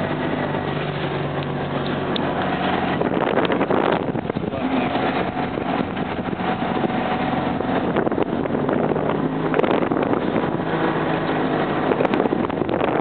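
Fiat 500 engine running steadily as the car drives through snow, heard from inside the cabin.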